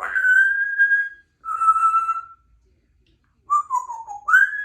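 Congo African grey parrot whistling four clear notes: a long steady one, a slightly lower one, then a note sliding down followed by one sliding up and held.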